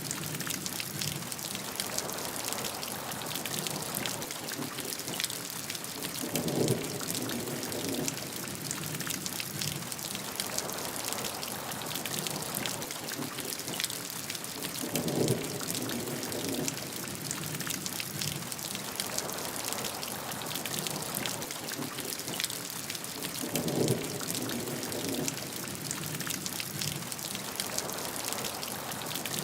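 Steady rainfall with many close, separate drops hitting a surface. A lower swell rises and fades three times, about every eight or nine seconds.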